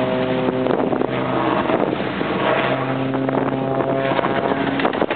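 An engine running at a steady pitch, with wind buffeting the microphone.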